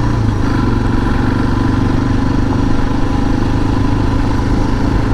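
Suzuki DR650's single-cylinder four-stroke engine running steadily while under way, with a slight rise in pitch just after the start.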